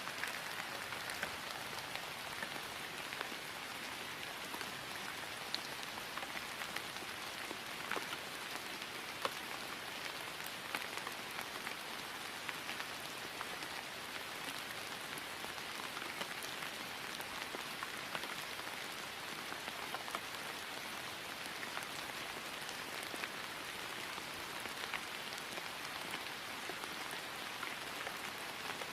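Steady rain falling on grass, an even hiss with many small drop pats scattered through it.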